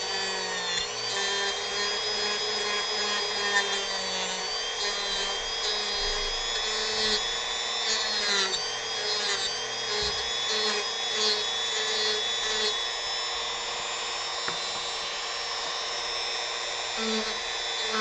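Dremel rotary tool carving wood, running continuously with a high whine that shifts slightly in pitch as the bit works the wood.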